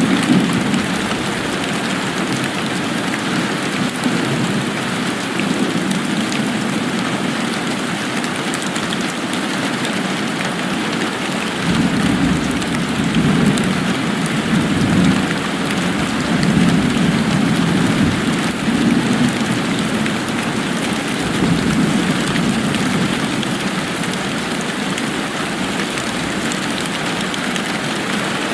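Steady rain falling. A low rumble swells in about twelve seconds in and fades again over the next ten seconds or so.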